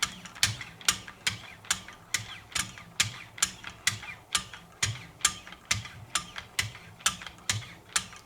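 Wicked Edge sharpening system: 1-micron lapping-film paddles stroked along a knife edge, a short sharp scrape-click about twice a second in a steady rhythm. This is the fine polishing stage toward a mirror edge.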